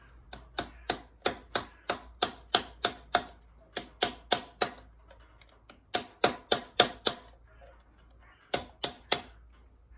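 Hammer striking a flat screwdriver held against a bolt head on a Reliant Regal engine, working it loose: sharp metallic taps about three a second, in four runs with short pauses between.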